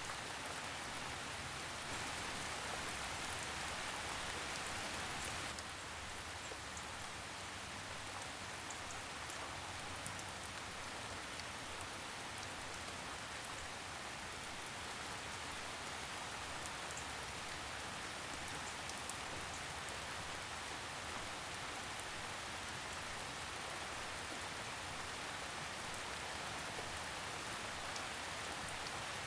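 Steady rain falling on forest leaves, an even soft hiss with scattered faint droplet ticks; the hiss eases slightly about five and a half seconds in.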